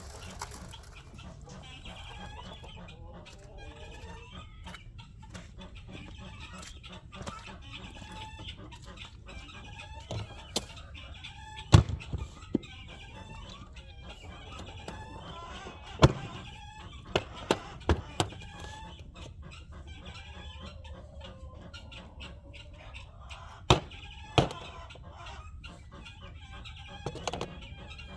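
A flock of chickens clucking and calling steadily, excited before feeding, with several sharp knocks scattered through, the loudest about twelve and sixteen seconds in.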